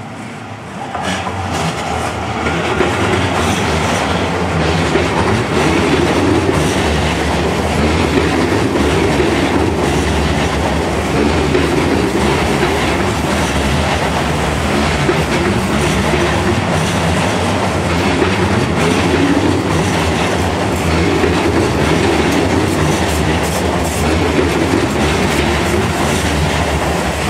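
Seibu 30000 series electric commuter train passing close by, its wheels clattering over the rail joints. The sound swells over the first two or three seconds as the train arrives, then stays loud and steady as the cars go by.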